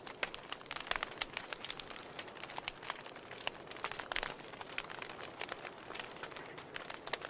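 Wood fire burning in a fireplace, crackling and popping irregularly over a soft hiss.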